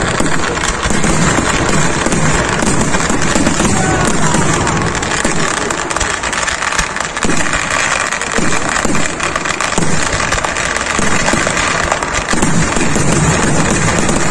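Temple-festival fireworks going off in a continuous, rapid barrage of bangs and crackles.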